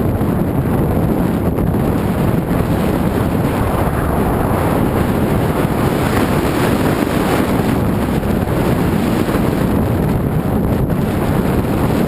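Wind rushing over the microphone, a loud steady roar with no breaks.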